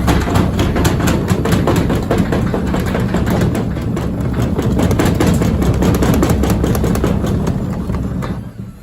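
Candy SmartTouch washing machine in an extremely unbalanced spin: the drum and cabinet bang and rattle rapidly over a heavy low rumble, the load thrown off-balance at spin speed. The noise dies down sharply near the end as the spin drops off.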